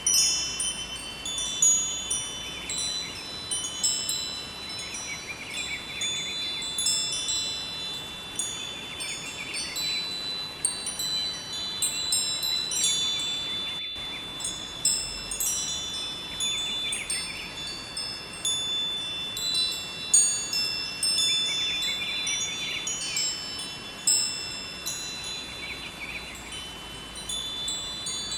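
Wind chimes ringing continuously, many overlapping high tones struck again and again, over the steady rush of a flowing river. A very brief dropout about halfway through.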